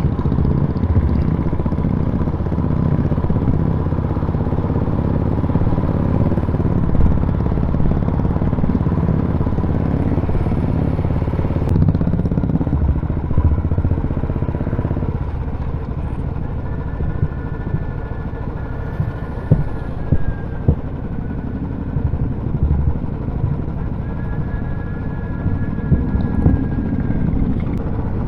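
Royal Enfield motorcycles running on a group ride, a dense low engine rumble that eases a little about halfway through. Twice in the second half a steady two-note tone is held for a few seconds over the engines.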